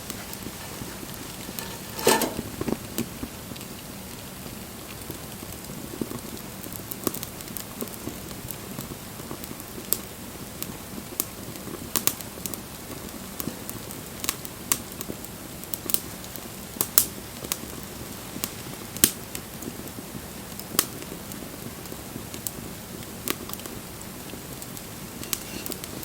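Wood fire crackling: irregular sharp pops over a steady low hiss, with the loudest burst of pops about two seconds in.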